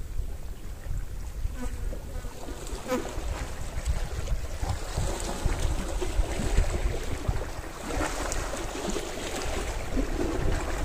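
Small sea waves washing onto the shore, with wind rumbling on the microphone. The wash swells about three seconds in and again about eight seconds in.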